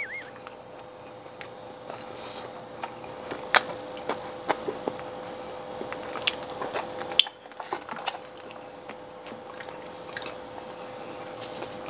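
Close-miked mouth sounds of someone eating, chewing and biting food, with scattered small wet clicks and light crunches over a faint steady hum.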